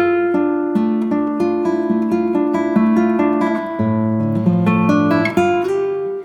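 Background music: acoustic guitar picking notes in a steady rhythm, with the bass shifting to a lower note about four seconds in.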